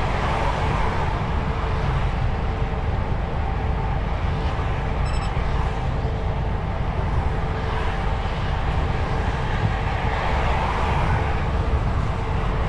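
DAF XF truck on the move: steady engine and road noise, a continuous low rumble.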